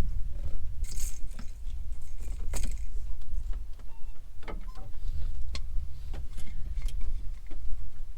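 Handling noise: a fluctuating low rumble with scattered sharp clicks and brief light metallic jingling, like gear being moved about.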